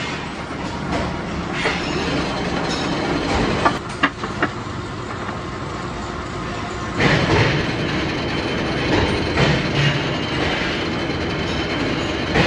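Metalworking machinery running steadily, with a few sharp metallic clanks about four seconds in and a louder, busier stretch from about seven seconds.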